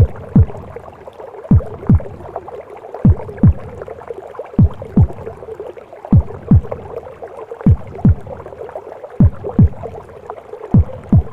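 Womb-sound recording of a mother's heartbeat: deep double thumps (lub-dub) about every one and a half seconds, eight beats in all, over a steady whooshing, gurgling in-utero noise.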